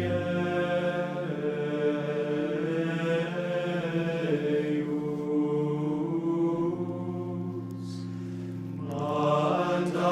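Choir singing the antiphon and psalm for the anointing of the hands in Gregorian chant, with long held notes moving slowly from pitch to pitch.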